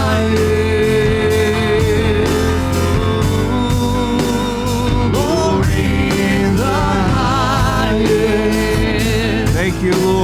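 Live church worship band music with a steady beat, bass, and wavering held sung notes.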